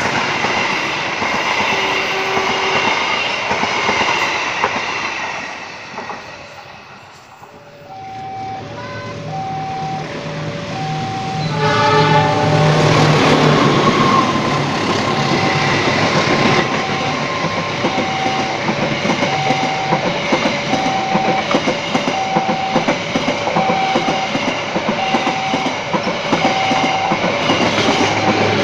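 Passenger train passing with wheel clatter, fading out in the first few seconds. Then a level-crossing alarm starts, alternating a high and a low tone about once a second. A short train horn blast follows, and a train passes loudly with rhythmic wheel clatter while the alarm keeps sounding.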